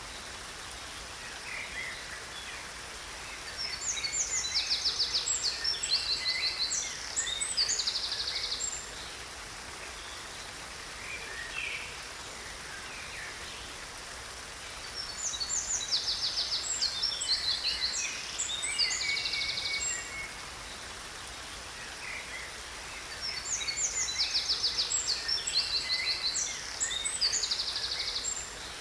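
A songbird singing long, complex phrases of chirps and fast trills, three phrases roughly ten seconds apart with a short call between them, over the steady hiss of a waterfall.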